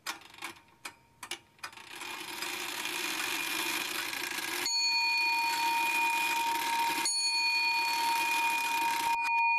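Sound-design effects: a handful of sharp irregular ticks, then a rising hiss-like swell. About halfway in, a steady bell-like ringing tone cuts in, is struck afresh a couple of seconds later, and has a few clicks over it near the end.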